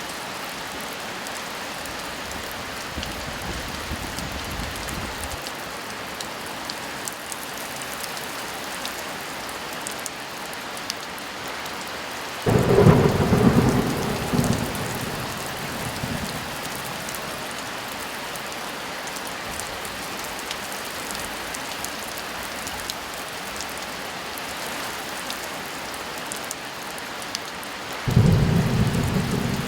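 Steady heavy rain with thunder. A faint low rumble comes a few seconds in; about halfway a loud thunderclap rolls away over a few seconds, and another begins just before the end.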